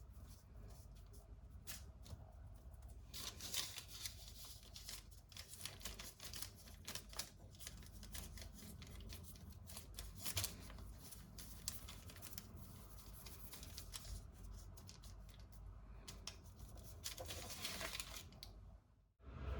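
Scattered small clicks, taps and rustling of objects being handled, like household preparation work, fading out near the end.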